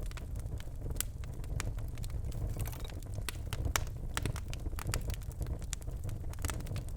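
Birch logs burning in a fireplace, crackling with frequent irregular sharp pops over a steady low rumble of the flames.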